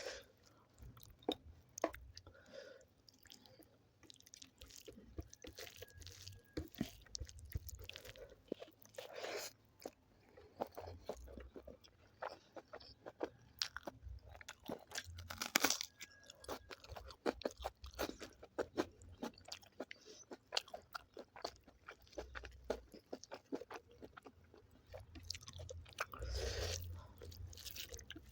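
Close-miked chewing of chicken curry with rice: wet mouth smacks and clicks with occasional crunchy bites, several louder bites standing out now and then.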